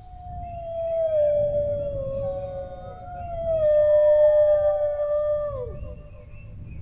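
Dogs howling: long, slowly falling howls that overlap, the main one sliding down and breaking off near the end.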